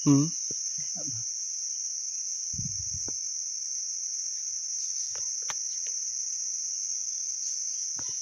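Steady high-pitched chorus of insects such as crickets, unbroken throughout. A short loud voice-like sound comes right at the start.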